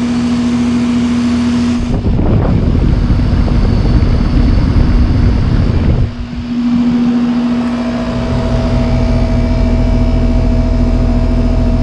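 2008 Carrier base model 3-ton heat pump running in heat mode, its compressor and outdoor fan giving a steady hum. From about two seconds in to about six seconds the sound turns rougher and more rushing, then after a brief dip the steady hum returns.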